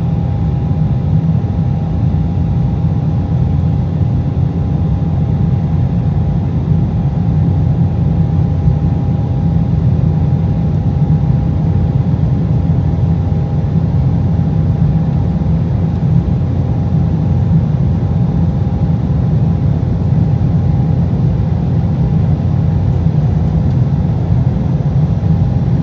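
Steady cabin noise inside an Embraer E190 jet in flight: a constant low rumble from the GE CF34-10E turbofans and airflow, with a thin steady tone riding over it.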